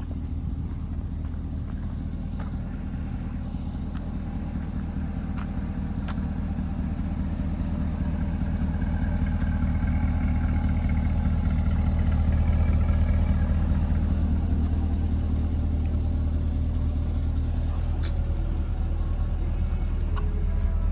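2020 Chevrolet Corvette's 6.2-litre LT2 V8 idling with a steady low rumble, growing louder a little before halfway and staying so.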